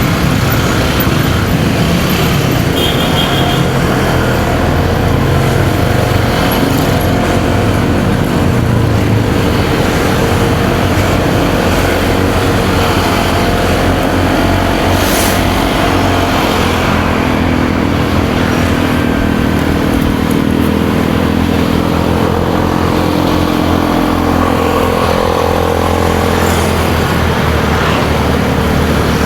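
Motorcycle engine running under way, mixed with wind and road noise and surrounding traffic. The engine's pitch rises and falls as the rider works the throttle.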